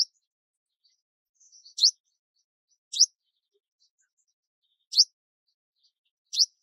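A songbird calling with short, sharp chirps that sweep quickly upward in pitch, about five in a row one to two seconds apart, with a few faint softer notes between.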